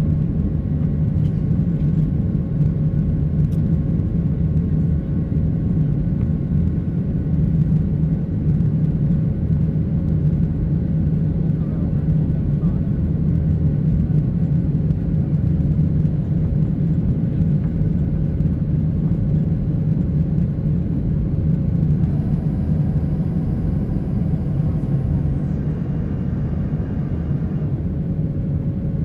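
Steady low rumble of a Boeing 737-800 heard inside its cabin, from its CFM56 jet engines and airflow. A faint high whine comes in about three quarters of the way through and drops in pitch a few seconds later.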